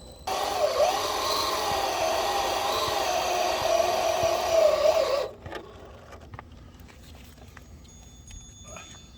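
Electric RC drag car's brushless motor and drivetrain whining at a fairly steady pitch, with a wide hiss, for about five seconds; the sound starts and stops abruptly.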